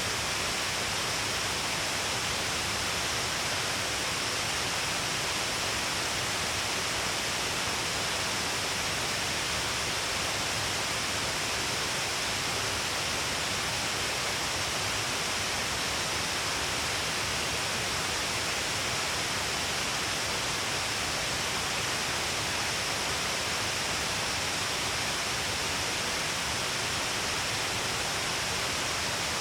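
Shiraito Falls' many thin cascades pouring over a long cliff face: a steady, unbroken rush of falling water.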